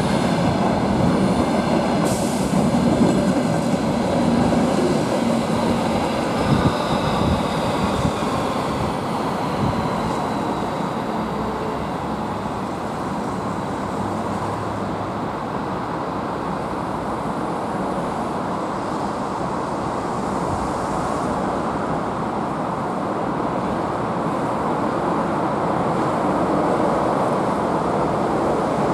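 Freight-train wagons, mostly empty flat cars, rolling past on steel rails and then moving away: a steady rumble with wheels knocking over rail joints. Faint high wheel squeal falls away over the first several seconds.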